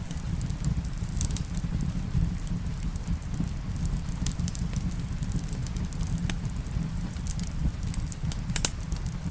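Wood fire crackling in a fireplace, with scattered sharp pops at irregular moments, over a steady low rumble mixed with rain.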